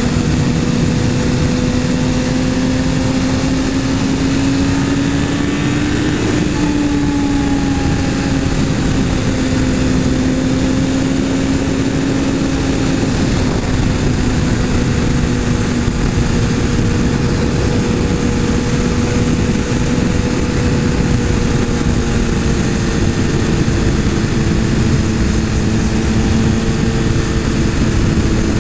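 Motorcycle engine running at a steady cruise, its pitch rising a little about six seconds in and then easing back, under a constant rush of wind.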